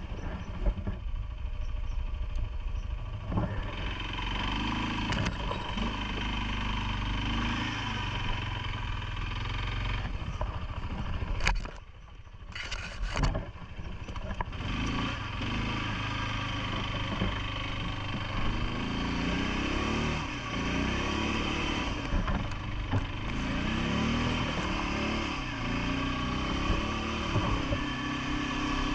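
CFMoto ATV engine running under way, its pitch rising and falling with the throttle, with a few sharp knocks. The engine drops away briefly about twelve seconds in, then picks up again.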